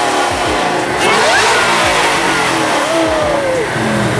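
Car engines revving at a car meet, with several rises and falls in pitch over a loud, steady din.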